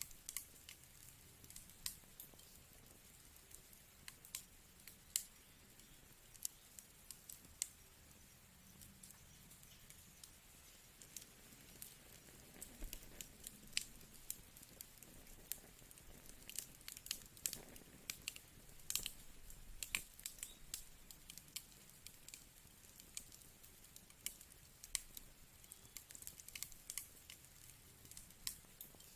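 Firewood fire crackling: irregular sharp pops and snaps over a faint steady hiss.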